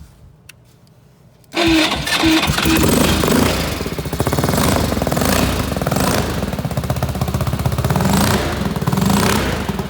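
A Ducati 750 TT1's air-cooled 90-degree V-twin starts suddenly about a second and a half in, catching at once and running loud. It is blipped up several times as it runs.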